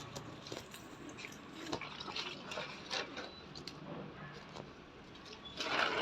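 Water dripping: irregular drips and taps, with a louder splashy burst near the end.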